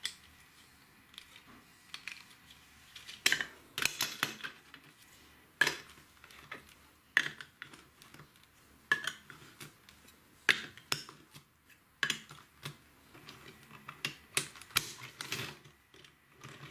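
Plastic LEGO pieces clicking and clattering as they are handled, with sharp irregular clicks every second or so.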